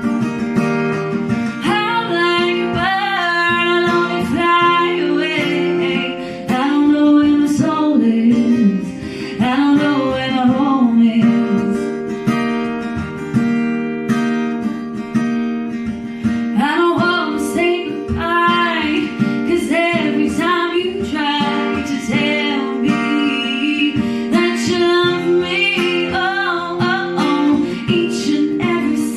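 Strummed acoustic guitar with a woman singing over it, the voice gliding through held and bending notes for most of the stretch.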